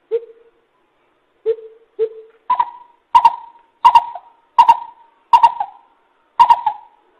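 Greater coucal lure call: three deep, spaced hoots, then a steady series of higher hoots about two every second and a half.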